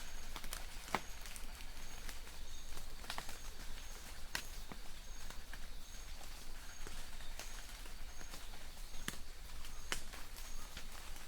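Light rain falling in a forest: a steady hiss with scattered sharp ticks of single drops hitting leaves. A distant bird repeats a faint high note about twice a second throughout.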